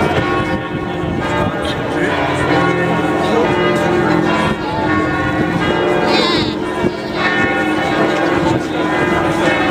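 Notre-Dame cathedral's bells ringing a peal, several bells sounding together with long, overlapping ringing tones.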